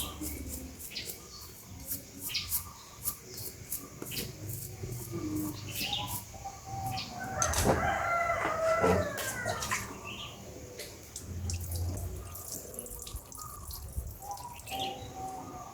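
A rooster crows once, about halfway through, over a background of scattered sharp clicks.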